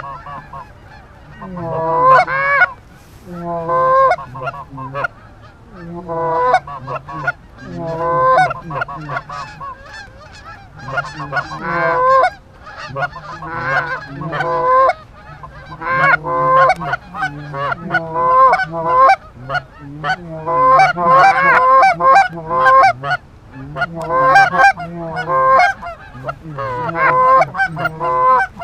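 Goose honking: loud, close, repeated clusters of honks and clucks that come every second or two with short gaps.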